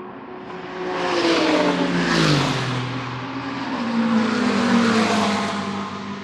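GT3 race cars passing at speed, two in quick succession: the first engine note drops sharply in pitch as it goes by about two seconds in, and a second car passes loudly a couple of seconds later.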